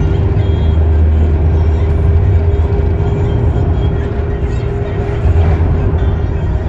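Steady low rumble of a moving vehicle, with a faint constant hum over it.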